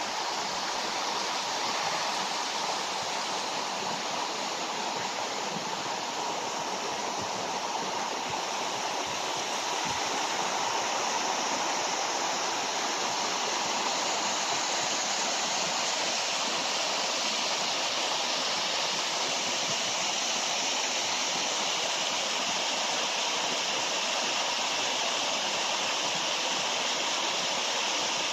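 Waterfall rushing and splashing in a steady, even roar of falling water, growing a little louder about ten seconds in.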